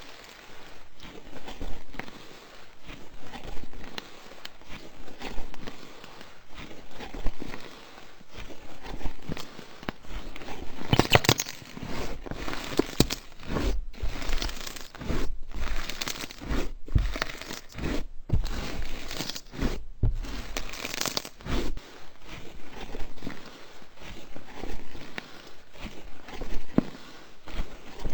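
Slime being squeezed, stretched and pressed by hand, giving irregular sticky crackles, pops and crinkling, thickest for about ten seconds in the middle.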